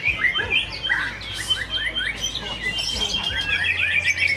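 White-rumped shama (murai batu) singing a fast, varied stream of whistles and trills, with a steadier run of high notes in the second half.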